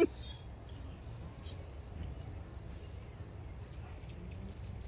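Insects chirping outdoors: a thin, high-pitched chirp repeating in an even pulse of about three to four a second, over a low steady rumble.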